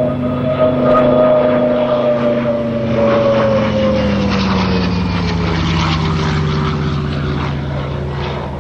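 A WWII warbird's piston aero engine and propeller flying past, a steady loud drone whose note slides gradually lower over the second half as the aircraft goes by.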